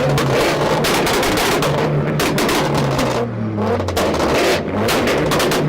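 A car engine bouncing off a two-step launch limiter, its exhaust popping and banging several times a second, with the revs falling away about three seconds in before the popping picks up again.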